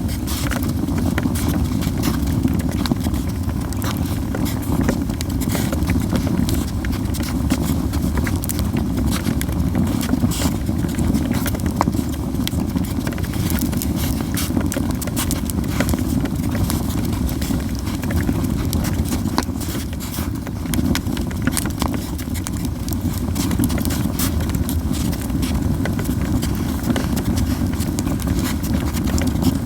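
Yew-wood campfire crackling, with many sharp irregular pops and snaps over a steady low rush.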